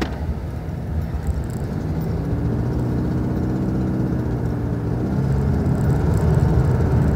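Car engine and road noise heard from inside the moving car's cabin: a steady low drone, with an engine hum that comes in about two seconds in and holds a fairly even pitch.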